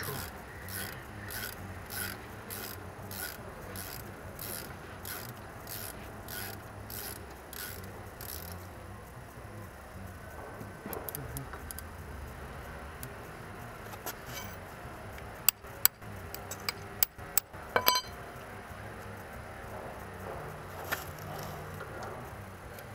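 Wrench working a loosened 14 mm brake caliper bolt out, with a steady clicking of about two strokes a second that stops after eight or nine seconds. A few sharp metallic knocks and clicks come about two-thirds of the way through.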